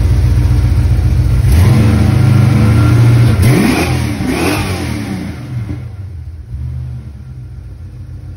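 Holden 304 pushrod V8 in a VS Commodore, running through a custom twin 2.5-inch mild steel exhaust with an X-pipe and aero chamber mufflers. It idles, is revved up about a second and a half in and held for a couple of seconds, then the revs fall back to a quieter idle.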